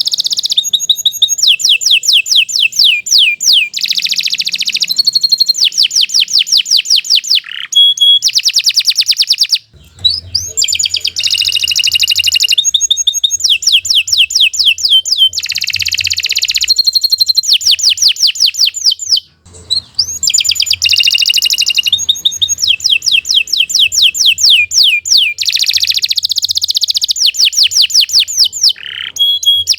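Domestic canary singing a long, loud song of fast trills and rolls: each phrase is a rapid run of the same note repeated many times a second, one phrase after another, with brief breaks about ten and twenty seconds in.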